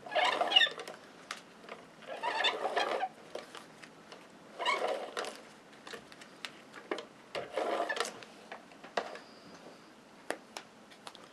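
Tape-runner adhesive (a snail) pulled across the back of a photo four times, each stroke a short ratcheting rasp about a second long, with small paper taps and clicks between strokes.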